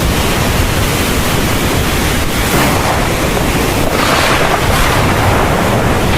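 Heavy rain pouring down in a dense, steady hiss, swelling briefly a couple of times midway.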